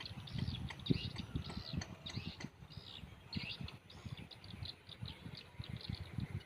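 Swiftlets (walet) twittering: a fast, continuous stream of short high chirps, with low irregular thumping underneath.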